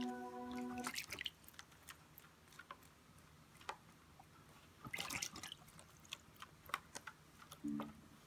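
Small irregular splashes and drips of water from a young cockatiel bathing, with denser bursts about a second in and again around five seconds in.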